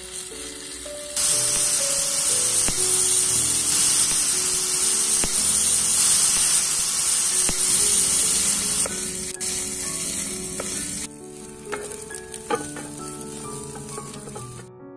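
Chicken pieces frying in hot oil in a black iron kadai, sizzling loudly. The sizzle jumps louder about a second in and drops back after about eleven seconds, when a wooden spatula scrapes and taps against the pan as the chicken is stirred.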